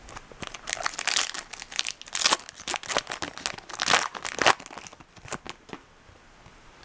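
A foil trading-card pack wrapper crinkling and being torn open, in a run of irregular rustling bursts that dies down about six seconds in.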